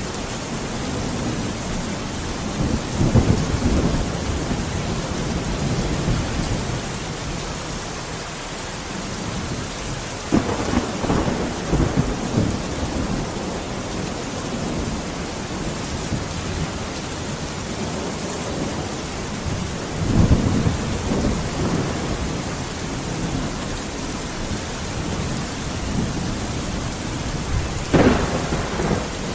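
Steady rain with thunder rolling in low rumbles about four times, a few seconds in, around ten seconds, around twenty seconds and near the end; the last clap is sharper and closer.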